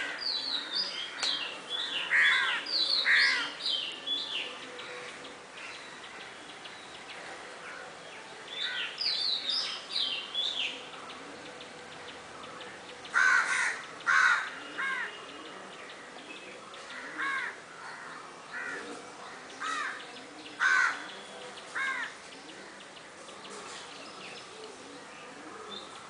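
Birds calling in several short bouts of quick, sharp repeated calls, with quieter stretches of background in between.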